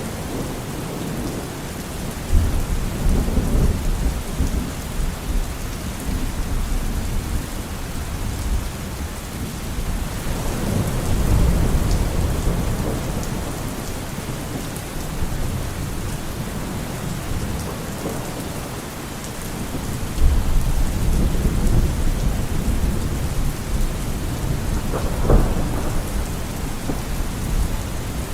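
Steady heavy rain with rolling thunderstorm thunder: three low rumbles swell and fade, the first a couple of seconds in, one around the middle and one past two-thirds of the way. There is a sharp crack near the end.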